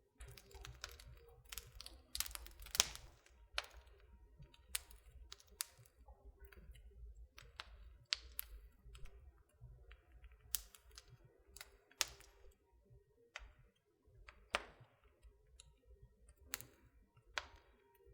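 Wood burning in a fireplace: irregular sharp crackles and pops from the logs over a low rumble. The crackles are thickest in the first few seconds, then come as single pops about once a second.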